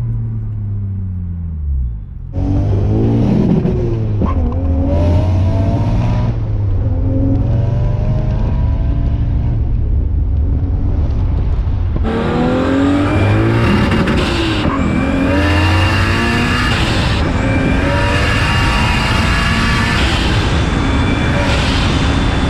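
Turbocharged 1JZ inline-six in a Lexus LS400 under hard acceleration. The engine note falls away for about two seconds, then comes in loud as the throttle opens. It keeps pulling and gets louder and brighter again about halfway through.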